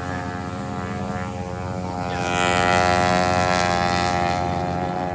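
Riding lawn mower's small engine running steadily, growing louder about two seconds in and easing off again near the end.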